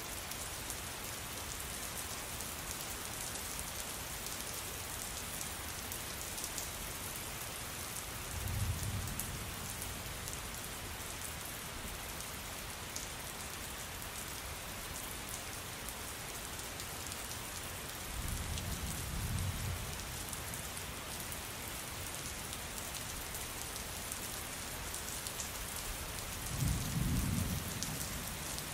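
Steady rain falling on surfaces, with three low rumbles of thunder, each lasting a second or two: the first about eight seconds in, the second about halfway through, the third near the end.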